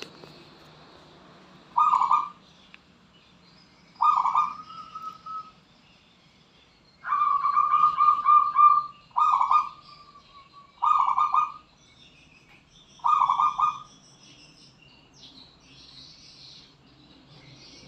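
Zebra dove (perkutut) cooing in short phrases of rapid, rattling coos about every two seconds, with one longer trilled phrase about seven seconds in.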